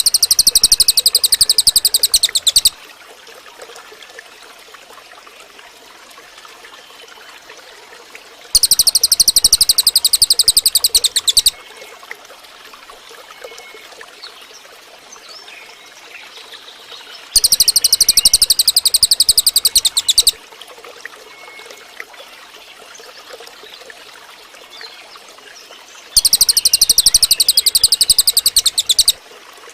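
Cililin bird song: a loud, very fast, even trill of high notes lasting about three seconds, given four times about nine seconds apart.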